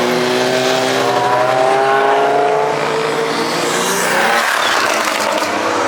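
A car engine accelerating, its pitch rising steadily for about four seconds before it fades into rushing road noise.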